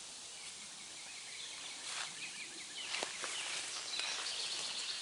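Outdoor ambience: a steady high hiss with faint bird chirps, a couple of soft rustles or clicks about two and three seconds in, and a thin high steady tone near the end.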